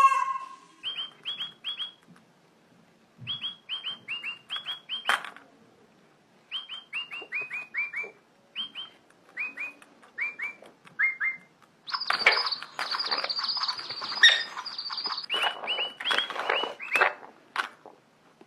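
A parrot chirping in quick runs of three to six short, falling notes, with a harsher, rasping call lasting about three seconds from about twelve seconds in.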